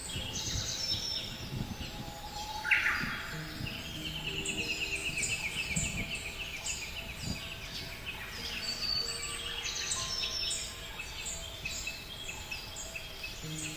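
Several small birds chirping and singing over one another, with a long rapid trill a few seconds in and a sharp call just before it.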